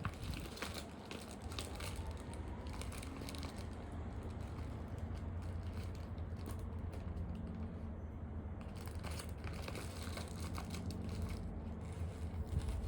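Steady low hum with faint crackling, and a muffled low thump near the end, typical of heavy footfalls or knocking from the flat above.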